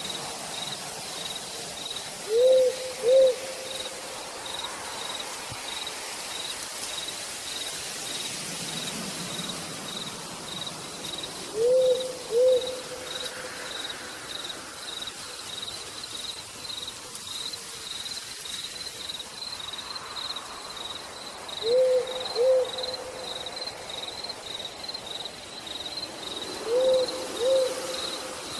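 An owl hooting four times, each call a pair of short rising-and-falling hoots. Under it, an insect chirps steadily and evenly, over a light hiss of rain.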